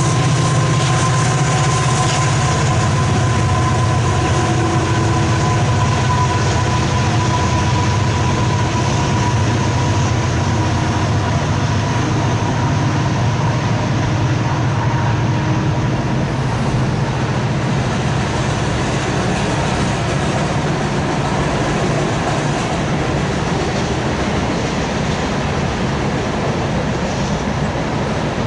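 CSX diesel locomotives passing close by with their engines running, followed by a long string of intermodal well cars rolling past with a steady rolling noise. A steady high tone and the deep engine sound fade in the first half as the locomotives move off.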